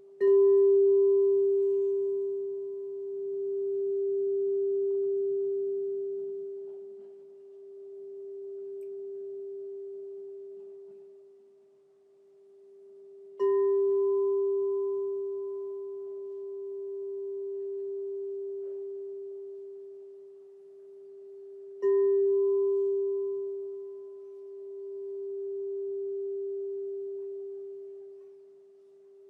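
Crystal singing bowl struck three times with a mallet, each strike starting a long, pure ringing tone that swells and fades slowly in a wavering pulse as it sustains. A fainter higher overtone dies away within a few seconds of each strike.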